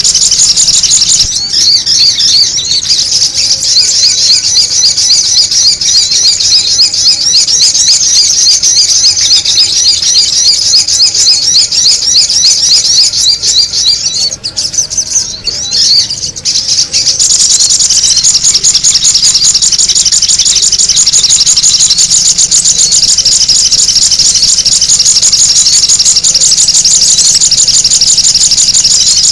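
Sogon bird calls played as a lure: loud, rapid, high chattering notes repeated without a break. The calls thin out and drop in loudness for a couple of seconds about halfway through, then run on as a denser, steadier chorus.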